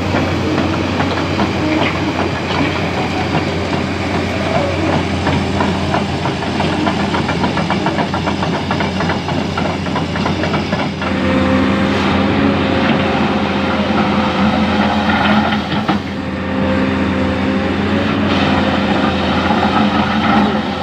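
Diesel engines of an excavator and dump truck at work, running steadily with rattling and clattering throughout. About halfway through, the engine note rises and a steady higher tone joins it.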